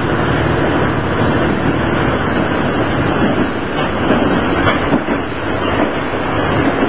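Inside a diesel railcar running: a steady rumble of engine and wheels on rail, with a few faint ticks.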